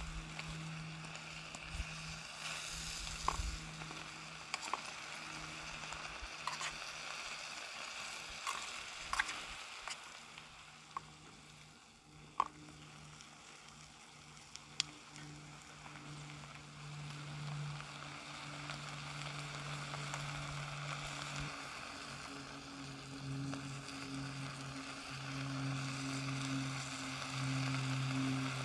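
Diced food sizzling in a small titanium pan over a paraffin-wax buddy burner, with scattered clicks of a metal spoon against the pan as it is stirred in the first half. A low steady hum grows louder near the end.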